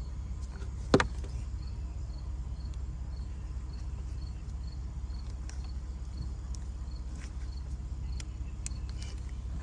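A cricket chirping in a steady, even rhythm over a low background rumble, with one sharp click about a second in.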